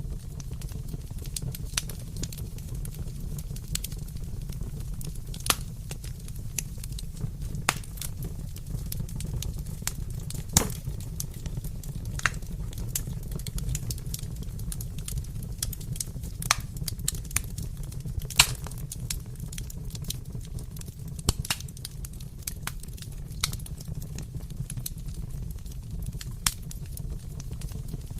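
Fireplace fire crackling: a steady low rumble with irregular sharp pops and snaps scattered through it, the strongest pops about a third and two-thirds of the way in.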